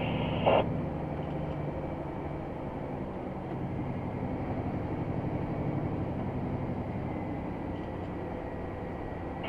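Scania XT G500 truck's 13-litre straight-six diesel running steadily under load as the fully laden 8x8 drives on, with a brief knock about half a second in.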